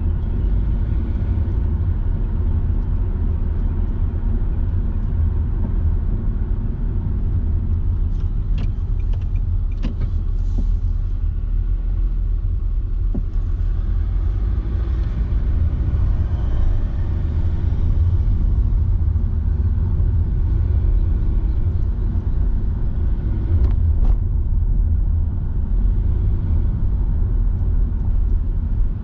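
Car driving, with a steady low rumble of road and engine noise and a few faint knocks about a third of the way in and again near the end.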